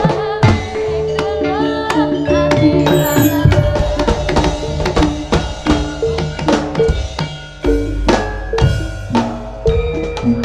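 Javanese jaranan ensemble music: kendang hand drums and other percussion beat a busy rhythm under a held melody line that bends in pitch in places.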